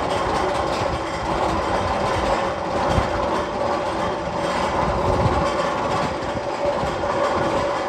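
Magnum XL 200 roller coaster train rolling on its steel track: a continuous rail rumble and clatter with a steady hum.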